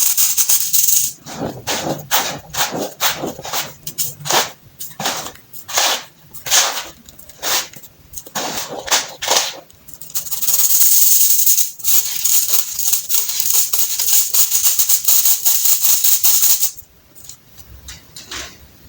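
Crunchy hardened baking soda being crushed: a dense, hissing crumble, then a run of separate sharp crunches about one or two a second, then dense crumbling again, quieter near the end.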